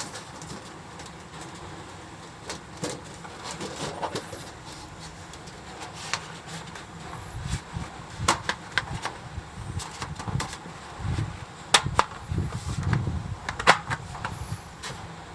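Firewood burning in a small metal fire pit, with irregular sharp pops and crackles, the strongest about eight, twelve and fourteen seconds in, over a low rumbling background.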